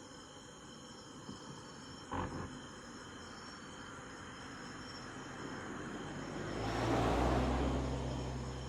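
Crickets and other insects chirping steadily, with a short knock about two seconds in; then a car approaches and passes, its engine and tyre noise swelling to the loudest point about seven seconds in and fading again.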